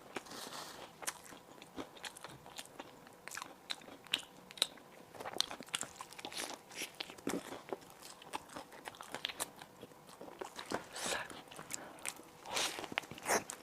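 Close-miked eating: bites and chewing of crispy baked bread food, a dense run of crunches and crackles, with louder clusters about seven seconds in and near the end.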